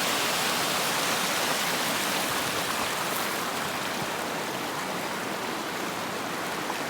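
Steady rushing and splashing of a small mountain waterfall, easing a little in loudness over the seconds.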